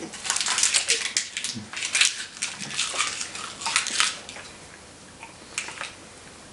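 Hard energy candy being crunched and chewed in the mouth: a run of irregular crisp crunches that stops about four seconds in.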